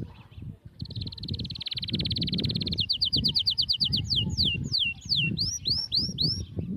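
A songbird singing: a high, very fast trill starting about a second in, then a run of quick repeated notes, then slurred falling and rising whistles. Underneath are low, irregular rustling and knocks of fabric being handled.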